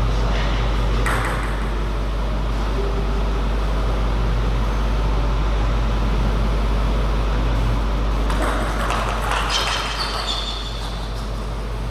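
Steady low electrical hum, with a few short sharp clicks of a table tennis ball on bat and table about a second in and again near the end.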